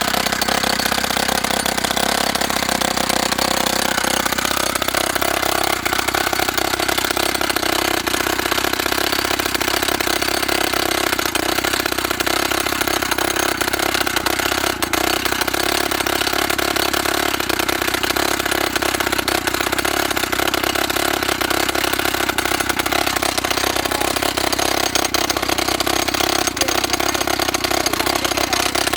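YN30A two-stroke petrol rock drill running loudly and steadily, its pitch shifting over the first few seconds and then settling.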